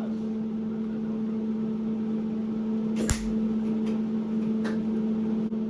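Steady machine hum, with one sharp click about three seconds in.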